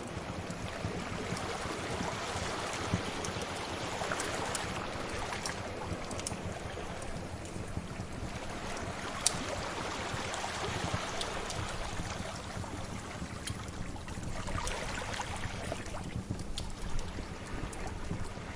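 Sea waves washing steadily, mixed with the scattered pops and crackles of a fire; one sharper pop about nine seconds in.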